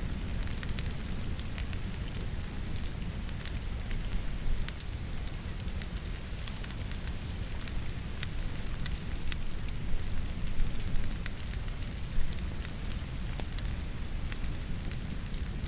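Logs burning in a fireplace, crackling with scattered small snaps and a few louder pops, over a steady hiss of falling rain.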